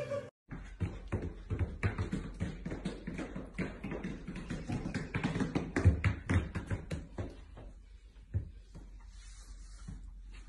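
Two dogs wearing boots walking on a hard floor: many quick, irregular taps of the boot soles, thinning out near the end.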